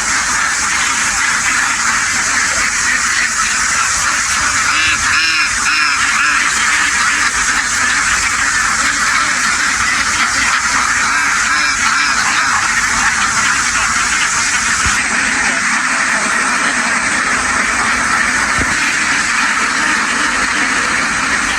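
A very large flock of domestic ducks quacking all at once, a dense, steady chorus with no let-up.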